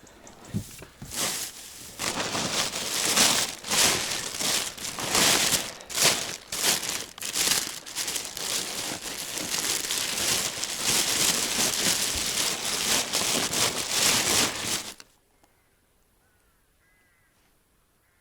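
Loud close rustling and crinkling, an irregular run of crackling strokes, that cuts off suddenly about 15 seconds in.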